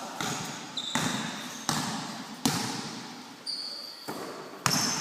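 A basketball bouncing on a hard court in an echoing hall, about six irregular bounces, each ringing out in reverberation. A few short high squeaks come in between them.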